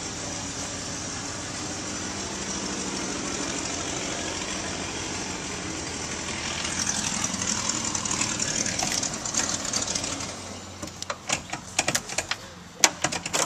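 An engine running steadily, swelling louder for a few seconds past the middle, then fading. Near the end comes a quick run of sharp clicks and knocks.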